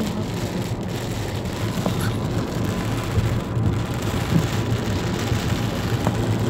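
Heavy rain pouring steadily in a storm, a dense unbroken rush with a low rumble underneath.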